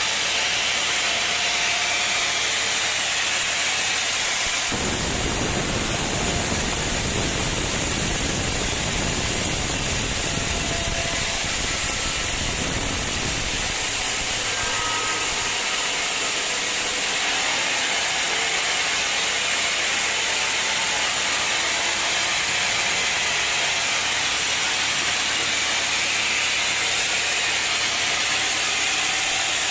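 Sawmill machinery running: a steady, loud, hissing mechanical noise. A deeper rumble joins about five seconds in and drops away a little before halfway.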